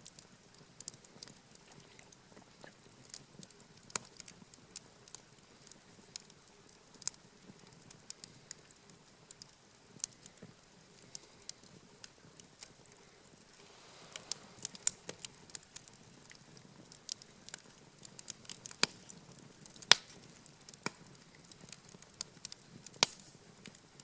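Wood fire burning with irregular crackles and sharp pops, the loudest pop about twenty seconds in, with a brief soft hiss of flames about halfway.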